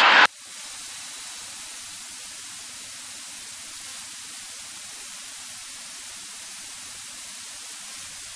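Steady electronic hiss of a cockpit intercom audio feed, with a faint low hum beneath and the engine barely heard.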